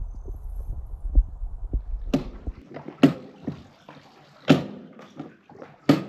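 A low rumble with dull thumps that stops about two and a half seconds in, then four sharp water splashes a second or so apart, with sloshing in between.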